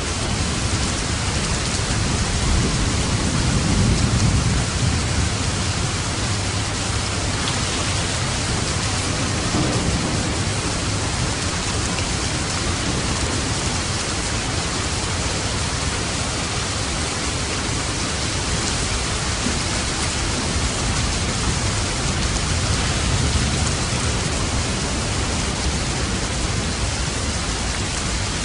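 Steady heavy rain falling, with a low rumble of thunder swelling a few seconds in and again briefly near the middle.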